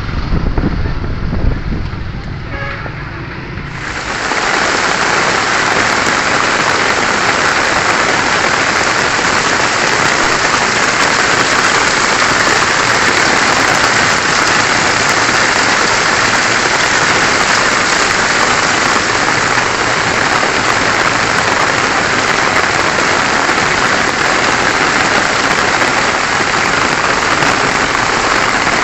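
A low rumble, then from about four seconds in a sudden change to steady, loud rainfall hissing on surfaces.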